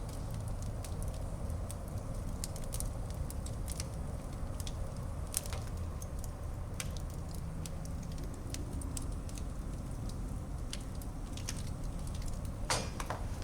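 Wood fire burning in a fireplace: a steady low rumble with scattered sharp crackles and pops, and a louder cluster of pops near the end.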